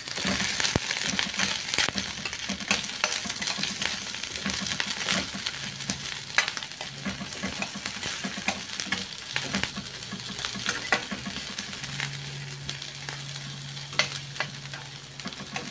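Chopped garlic and sliced red onion sautéing in hot oil in a pan: a steady sizzle dotted with crackles and pops.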